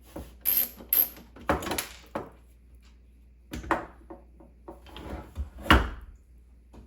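Computer parts being handled and fitted during a PC build: a string of knocks, clicks and short scraping rubs, the loudest knock near the end.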